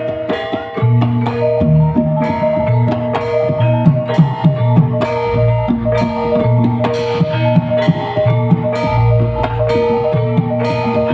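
Live band music with a steady beat: held notes and a deep bass line under regular struck percussion.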